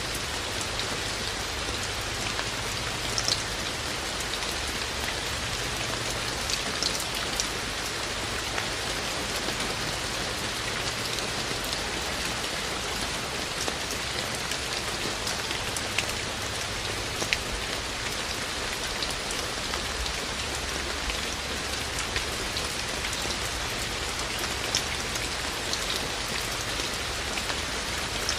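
Steady rain falling, with single drops landing close by in sharp ticks scattered through it.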